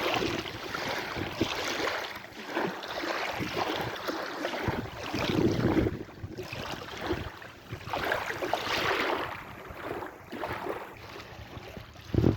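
Sea waves washing in, the surf swelling and fading every few seconds.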